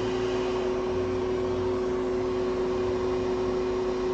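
Hot air rework station blowing steadily while a part is heated on a phone logic board: a constant fan whir with a steady hum.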